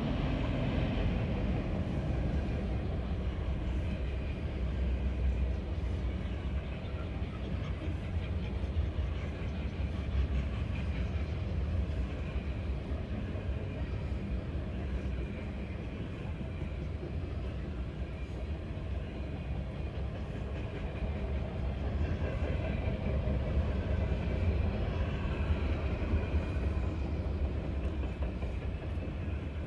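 Freight cars (tank cars and autoracks) rolling past: a steady low rumble of steel wheels on the rails, swelling and easing, with faint scattered clicks.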